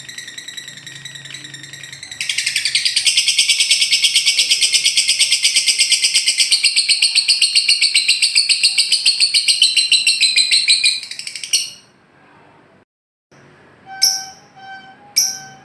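Lovebird ngekek: a long, loud, very rapid high-pitched chattering trill lasting about nine seconds that cuts off abruptly. It is followed by a pause and then a few short chirps near the end.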